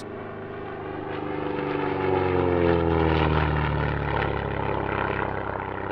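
A SIAI-Marchetti SF.260 light aircraft, with its 260-horsepower Lycoming piston engine and propeller, flying past. The engine drone swells to its loudest about halfway through, then eases off, its pitch dropping as it goes by.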